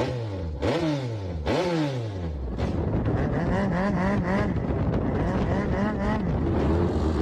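Speedboat's modified car engine revving, its pitch dropping several times in quick succession about once a second, then running steadily at high speed with a wavering pitch.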